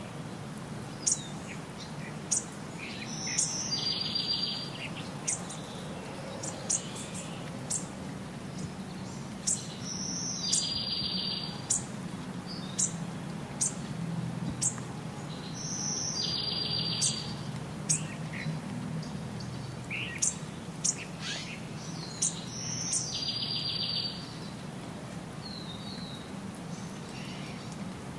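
Small songbirds chirping and calling, with one bird repeating a short song that ends in a buzzy trill about every six or seven seconds.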